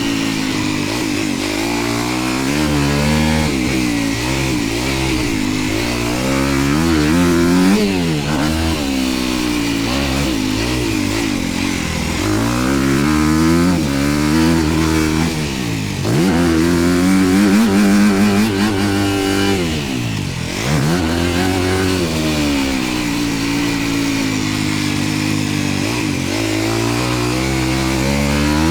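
Dirt bike engine being ridden hard, revving up and dropping back over and over as it accelerates and shifts, with one deep drop in revs about twenty seconds in.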